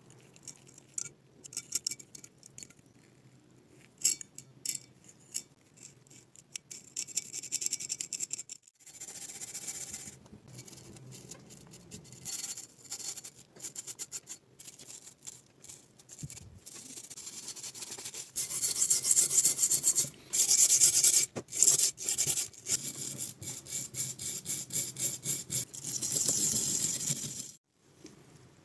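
Repeated scraping and rubbing strokes on metal as old paint is stripped from a rusted pipe wrench: scattered, lighter strokes at first, then quicker and louder runs of strokes in the second half.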